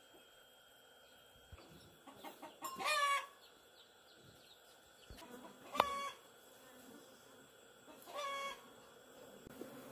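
A chicken calling three times: short pitched calls a few seconds apart, the first led in by a few softer clucks.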